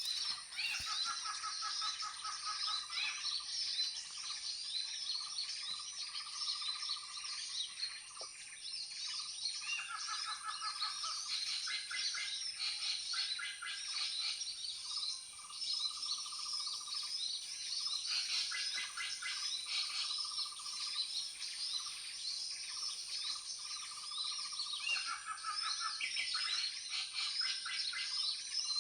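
Many small birds chirping and twittering without pause, with a lower rapid trill coming in bouts of a few seconds again and again, over a steady thin high whine.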